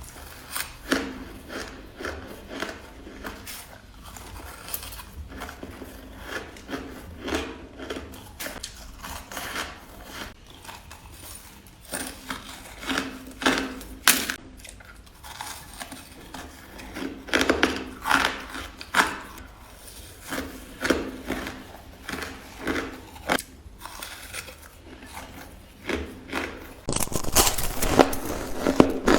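Ice being bitten and crunched between the teeth, bite after bite at an irregular pace. The crunching gets louder and denser near the end.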